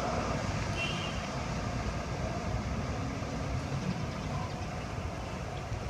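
Steady rumble of road traffic, with a brief faint high tone about a second in.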